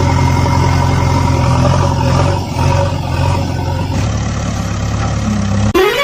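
Vehicle engine running steadily at idle. At about four seconds it changes to a deeper engine hum. Near the end a loud warbling, siren-like tone cuts in, rising and falling about twice a second.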